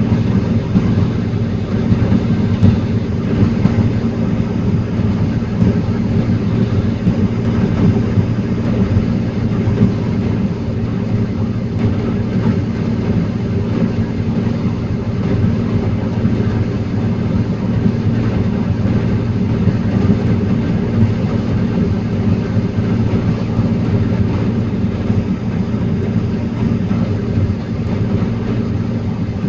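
Heavy diesel engine of a forestry machine running steadily under load, with no pauses or sharp knocks.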